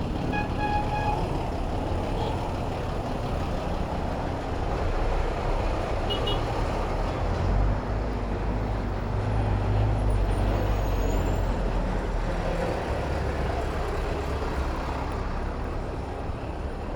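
Road traffic heard from a bicycle in city streets: vehicle engines and tyre noise run steadily, with a heavier low engine rumble of a large vehicle from about seven to twelve seconds in. A short pitched tone sounds near the start and a brief high beep about six seconds in.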